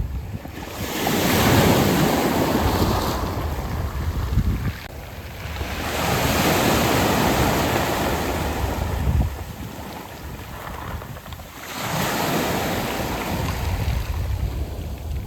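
Sea waves surging in and washing back over a round-pebble beach, three swells about five seconds apart, each rising to a loud hiss and then falling away.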